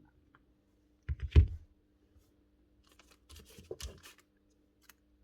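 Small parts of a pneumatic pin nailer being handled during a rebuild. A quick pair of hard knocks about a second in is the loudest sound, followed by a spell of light clicking and rattling and one last click near the end.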